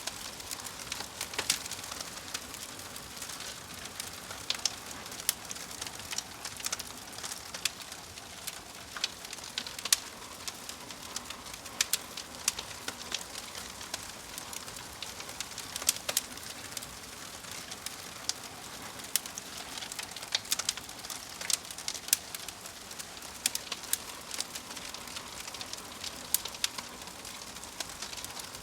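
Wood fire crackling: frequent sharp, irregular pops and snaps over a steady soft hiss.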